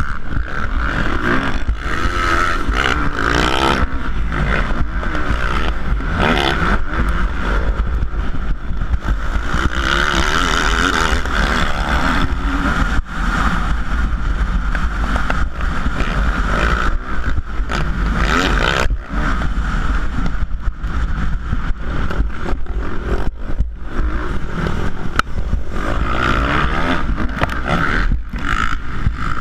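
Four-stroke 450cc motocross bike engines revving hard, their pitch rising and falling continuously as they accelerate and shift through a race.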